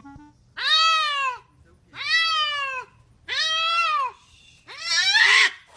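A cat meowing loudly four times in a row, each a long call that rises and then falls in pitch, about a second apart; the fourth is rougher and more strained.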